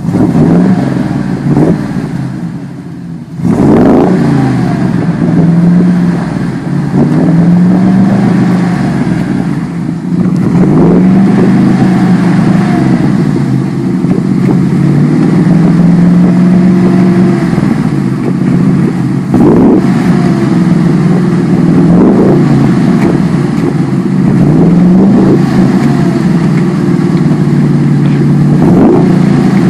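Small-block V8 truck engine running hard under load, its revs climbing sharply and dropping back again and again as the truck is driven through mud.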